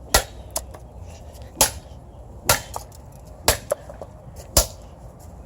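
Repeated sharp strikes on the electronics of a washing machine's control panel, about one blow a second, with a few lighter knocks between them.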